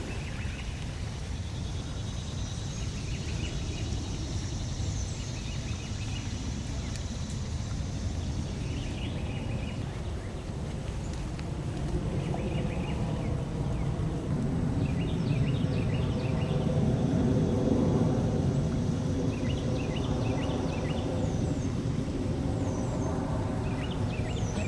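Outdoor ambience: a steady low rumble, like wind on the microphone, with small birds chirping on and off. The rumble swells and fades again in the middle.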